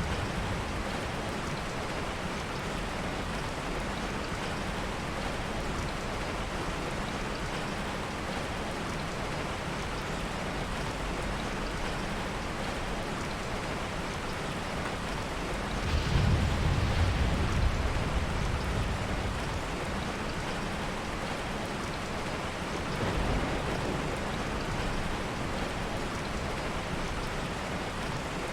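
Heavy rain falling steadily, with a soft low rumble of thunder swelling up about halfway through and a fainter one a few seconds later.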